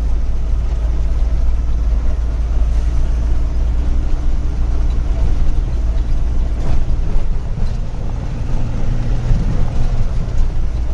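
Truck engine and road noise heard from inside the cab while driving: a steady low rumble, with the engine's hum rising a little about midway.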